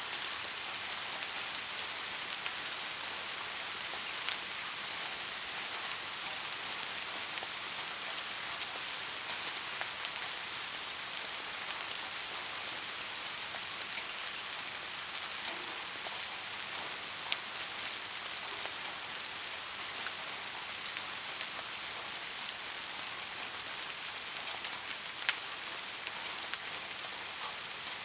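Steady rainfall, an even hiss of rain with occasional sharper drop ticks standing out, the clearest about 17 and 25 seconds in.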